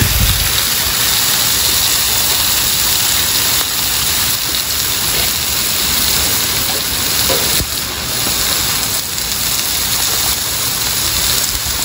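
Rice and vegetables sizzling steadily on a hot flat-top griddle with oil.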